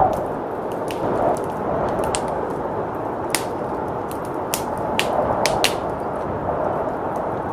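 Wood fire crackling, with sharp pops at irregular moments, over a steady rushing of blizzard wind.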